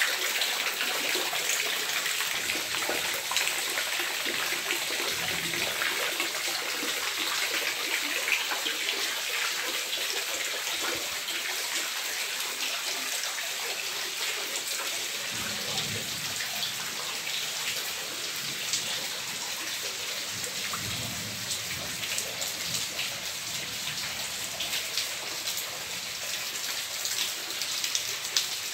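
Steady rain falling on a tiled backyard pool and concrete patio, a dense, even patter of drops, with water pouring off the roof edge into the pool.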